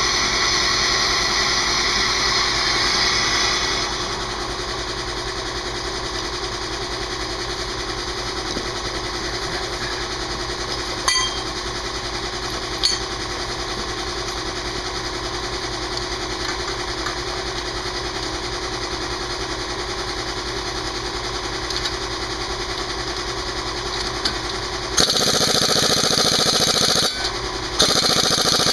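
Air compressor running steadily. About 25 s in, an air impact wrench hammers for about two seconds, then starts again near the end.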